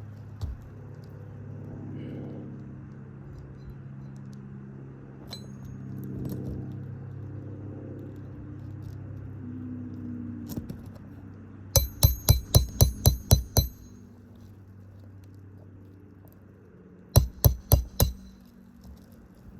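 Hammer blows on metal during shingle repair work on a roof: a quick run of about eight ringing strikes, then four more about four seconds later, with a low steady hum underneath.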